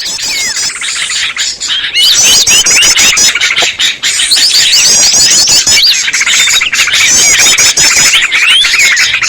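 Bird-lure recording: a noisy chorus of many small songbirds calling over one another, led by chattering yellow-vented bulbuls. Fast repeated trills sit high above quick up-and-down whistled notes, and the chorus gets louder about two seconds in.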